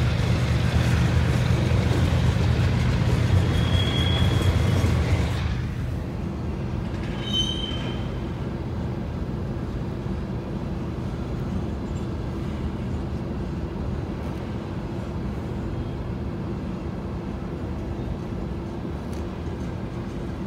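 Freight cars of a long mixed freight train rolling past a grade crossing, a steady rumble of wheels on rail with a brief high wheel squeal. About five seconds in the sound turns quieter and muffled as it is heard from inside a car, with a steady low hum under it and one more short squeal.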